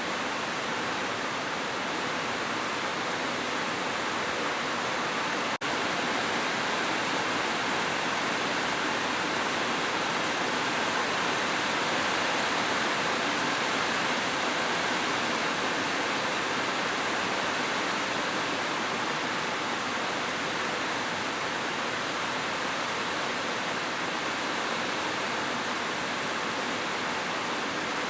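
Heavy rain falling steadily as a dense, even hiss, with a momentary break about five and a half seconds in.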